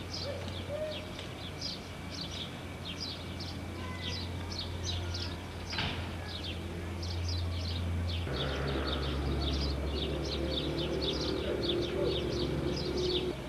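Small birds chirping over and over in quick, short calls, over a steady low electrical hum that drops slightly in pitch about eight seconds in.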